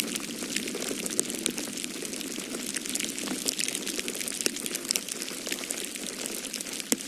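Wood fire crackling in a fireplace: many small irregular pops and snaps, with one sharper pop near the end, over a steady low rushing noise.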